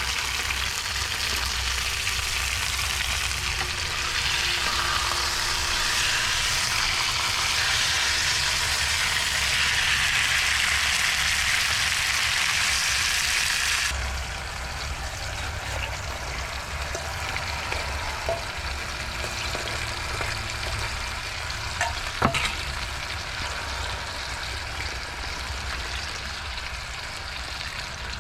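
Food frying in a pan, a steady sizzling hiss that drops away abruptly about halfway through. A quieter steady hiss follows, with a sharp knock about two-thirds of the way in.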